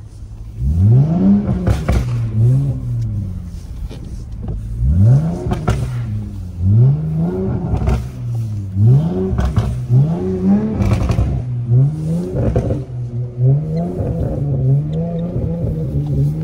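Car engine revved again and again, each rev climbing in pitch and falling back about every second and a half, as the wheels spin in snow to work the car free when it is close to getting stuck.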